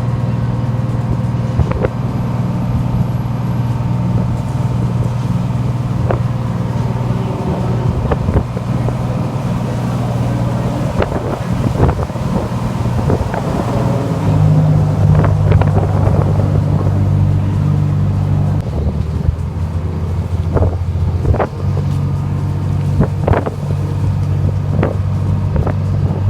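Boat engine running steadily under way, with wind buffeting the microphone; the engine note shifts and grows a little louder about halfway through. Scattered sharp knocks and clicks sound over it.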